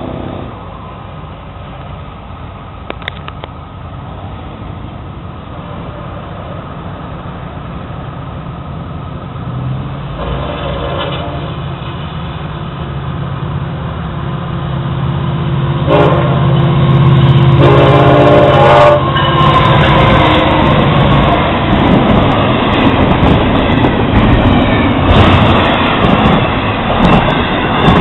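Florida East Coast Railway freight train approaching a grade crossing. Its diesel locomotives sound the horn, a short blast about a third of the way in, then a longer and louder one past the middle, with the engine rumble building. The train then rolls through the crossing, with loud wheel-on-rail noise and frequent clacks from the passing container cars.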